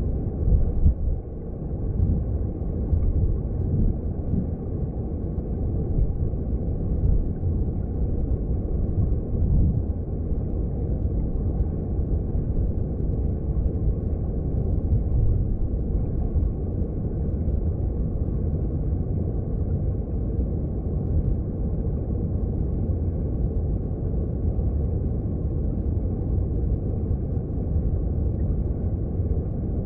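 Mountain stream heard underwater: a steady low rumble of flowing water, with a few slightly louder surges in the first seconds.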